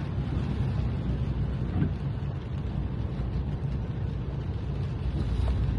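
Car on the move, a steady low rumble of engine and tyre noise heard from inside the cabin.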